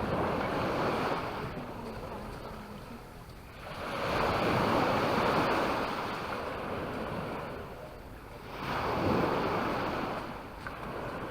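Sea waves breaking and washing up the beach, three swells of surf rising and falling a few seconds apart.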